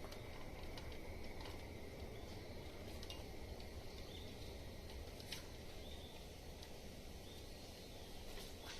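Quiet outdoor ambience: a steady low rumble with a faint, steady high-pitched tone, short faint chirps every second or two, and a few light clicks, the clearest about five seconds in.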